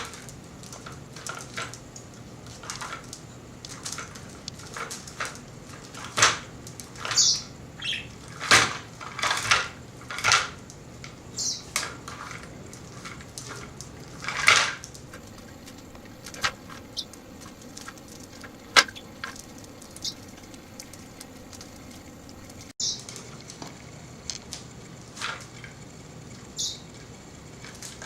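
Budgerigar knocking and rattling a toy, an irregular series of clacks and clatters, busier in the first half.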